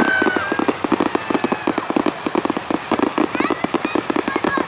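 Fireworks crackling rapidly and continuously, with a short whistle near the start.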